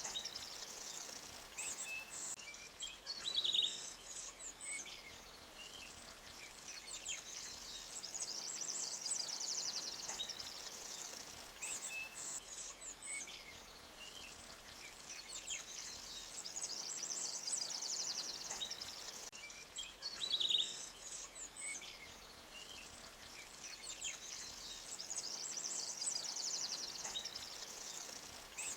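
Forest ambience: birds chirping over a faint steady hiss of running water. A high trill swells and fades every several seconds, and two sharp calls, about 3 s in and again about 20 s in, are the loudest sounds.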